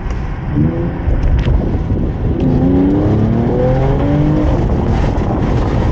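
Mercedes-AMG E53's 3.0-litre inline-six engine pulling under acceleration while driving. Its note rises in pitch briefly near the start, then climbs again for about two seconds in the middle, over a steady low drone. The car still has its stock downpipe.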